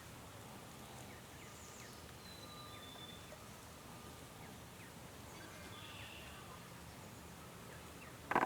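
Faint wetland ambience with distant songbirds chirping and giving short whistled notes. A single short, loud animal call comes right at the end.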